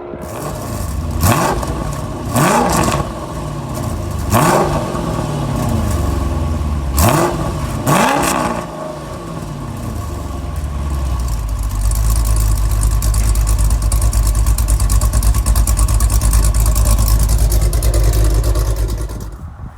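2005 Chrysler 300 SRT8's 6.1-litre Hemi V8, fitted with a cam, Kooks longtube headers and a Corsa exhaust, revved in five quick blips that each rise and fall. It then runs at a steady higher pitch for about seven seconds before dropping away near the end.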